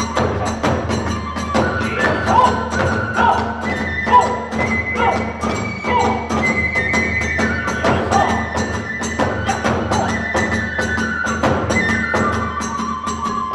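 Hiroshima kagura accompaniment: a bamboo flute playing long held notes that step up and down, over fast, continuous drum and small-cymbal beats.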